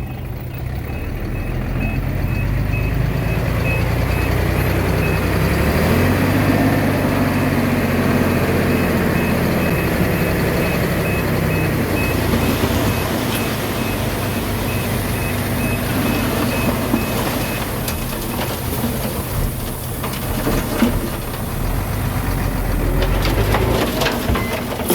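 A reversing alarm beeps about twice a second over a heavy diesel engine, then stops about two-thirds of the way through. The engine revs up about six seconds in and keeps working.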